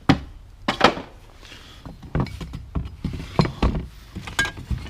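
Objects being handled and set down while rummaging through a box: a series of irregular knocks and clunks, the loudest right at the start and about a second in.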